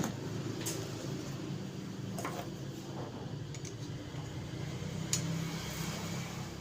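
A few light clicks and knocks of gas stove parts being handled as the ignition assembly is taken apart, over a steady low hum.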